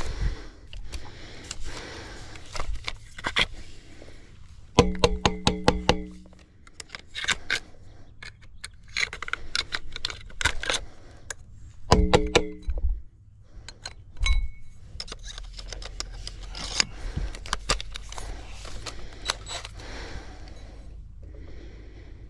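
Repeated clinks, clicks and knocks of tools and parts being handled, with two short bursts of a steady pitched whirr about five and twelve seconds in.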